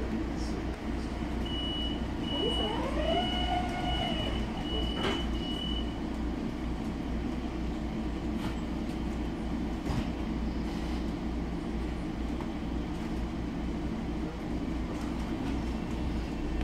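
Steady low hum inside a Long Island Rail Road electric train standing at a station platform. A couple of seconds in there is a run of quick high beeps and a tone that rises and then levels off. A single sharp knock follows about five seconds in.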